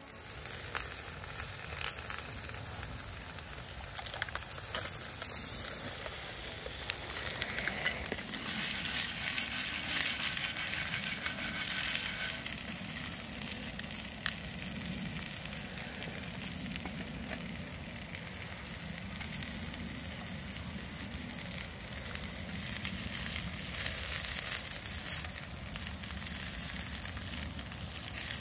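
Breakfast meats sizzling and crackling in a frying pan, a steady hiss that is a little louder for a few seconds about a third of the way in.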